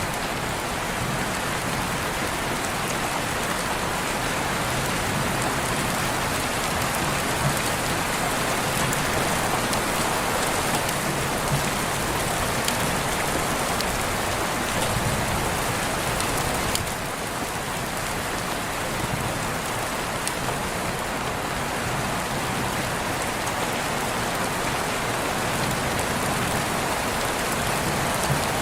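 Steady rain falling, a dense even hiss with scattered drop ticks, briefly a little softer about seventeen seconds in.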